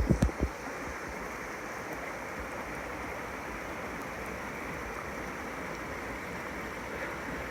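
Steady rush of a creek running down the gulch, with a few low thumps in the first half second.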